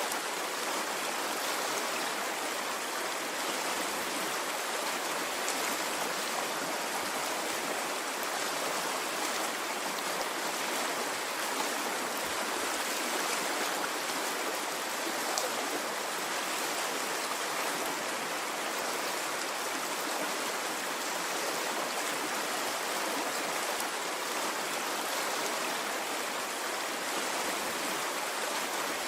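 A stream of running water flowing steadily, an even rushing and babbling with no rise and fall of waves.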